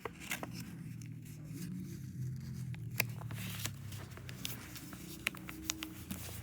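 Sheet of paper being handled, folded and pushed into a tuck, with scattered sharp crinkles and crackles over a faint steady low hum.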